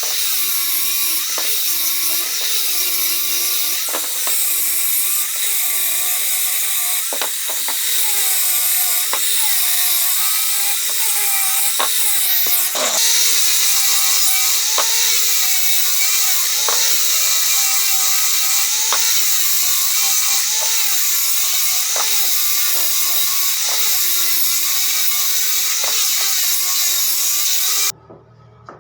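A power tool working wood, running steadily while its pitch dips and recovers about once a second as it is pushed back and forth under load; it stops abruptly near the end.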